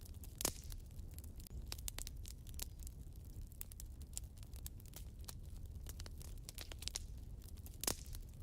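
Wood fire burning in a fireplace: a steady low rumble of the flames with irregular crackles and snaps, and two louder pops, one about half a second in and one near the end.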